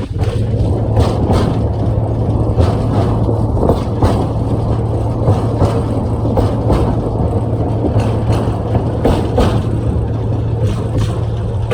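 Small tourist train running along its track: a steady engine hum with frequent short clicks and knocks from the wheels and carriages.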